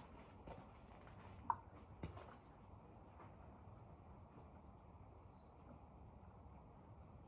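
Faint outdoor quiet in which a small bird gives a quick run of high, repeated chirps, then a few more. Early on there are a few soft knocks and one sharp click.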